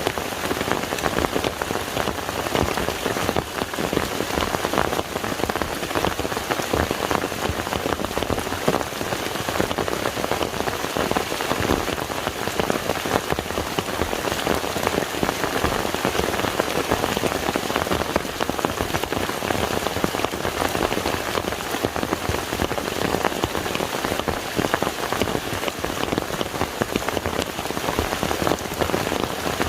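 Rain falling onto a lake's surface: a steady, dense patter of countless drops.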